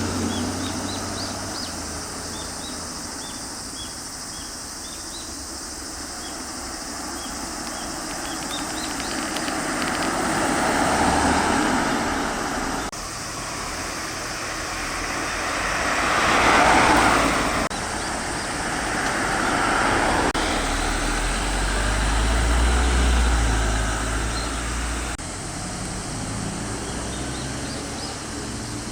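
Road traffic: cars driving past one after another, each swelling and fading, with no siren. Faint high chirps sound in the first few seconds.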